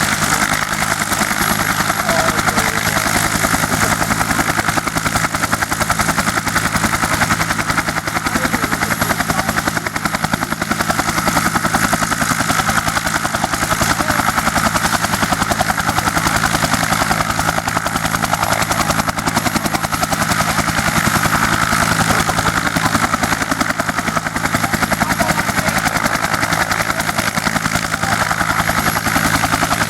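A U.S. Army UH-1 Huey helicopter running steadily, its turboshaft engine going and its two-blade main rotor turning with a rapid, even chop.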